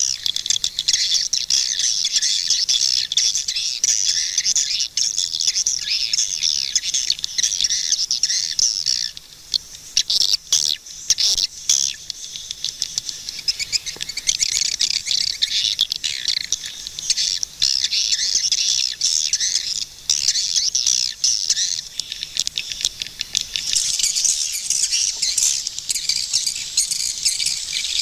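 A dense flock chorus of swiftlets giving rapid, overlapping high twittering chirps. About nine seconds in it thins out into a brief lull with a few sharp clicks, then the twittering resumes and grows fuller near the end.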